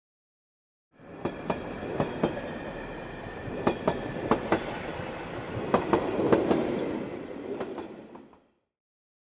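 Steady rumbling noise with irregular sharp clicks and knocks, fading in about a second in and fading out near the end.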